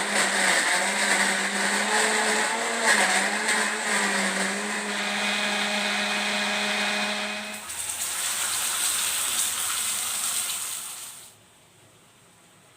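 Electric kitchen blender running, its motor note wavering slightly under load. About 7.5 seconds in the sound turns noisier and hissier, and it stops about 11 seconds in.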